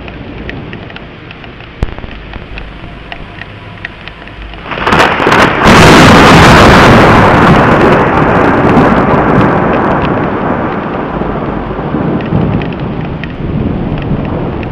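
Thunder over steady rain: scattered raindrop ticks, then a peal breaks in sharply about five seconds in and rolls on, slowly fading over several seconds.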